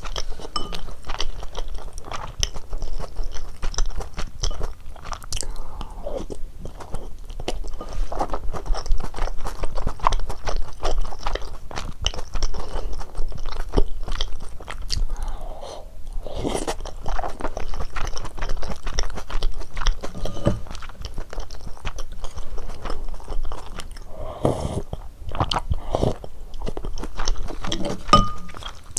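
Close-miked eating sounds of cheese ramyeon with dumplings: steady chewing with many small clicks. There are a few louder mouthfuls about halfway through and again a few seconds before the end.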